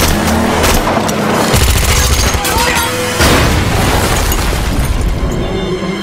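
Action-film car chase soundtrack: bursts of gunfire and booming impacts over car engine noise, with a music score underneath.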